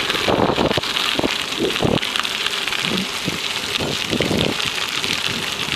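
Wind buffeting a handheld camera's microphone while riding a bicycle along a gravel rail trail, with irregular low rumbling gusts over a steady hiss.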